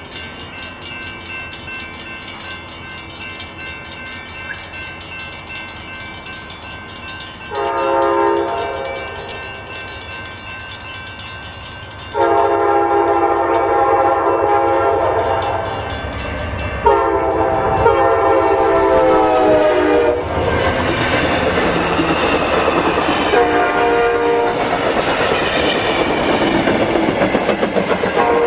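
Amtrak GE P42DC locomotive's five-chime Nathan K5LA horn sounding a series of blasts: a short one, then two long ones, the second dropping in pitch as the locomotive passes. Then comes the loud rush and rumble of the passing train, with a brief horn blast and another at the very end.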